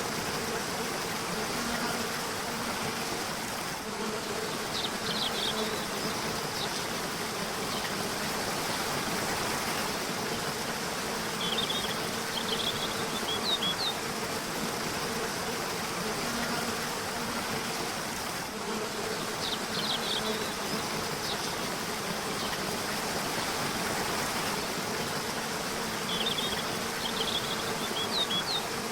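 River water flowing steadily, with birds giving short clusters of high chirps about every seven seconds over a faint low buzzing hum.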